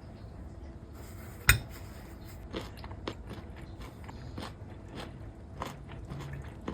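Peanuts being shelled and eaten close to the microphone: one loud crack about a second and a half in, then a run of smaller cracks and crunches.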